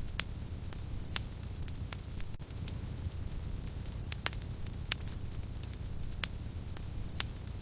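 Fire burning in a fireplace: a steady low rumble and hiss of flames, broken by sharp crackles and pops. About six loud pops come at irregular intervals of one to three seconds, with fainter crackles between them.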